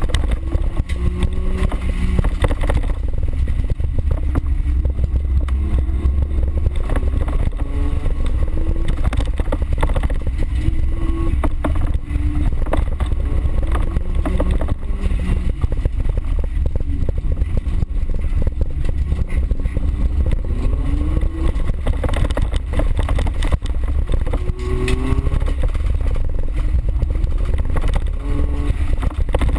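Small four-wheel-drive car's engine revving up and down hard under racing on a dirt course, heard from inside the cabin. Low rumble with frequent knocks and rattles as the car bounces over the rough ground.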